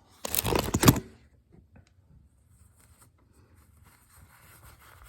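Work gloves being handled and pulled on: a brief loud rustle lasting under a second, followed by faint small clicks and handling sounds.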